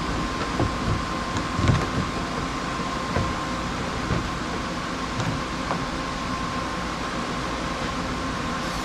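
A steady mechanical hum with a faint high tone, with scattered light knocks and clicks during the first few seconds.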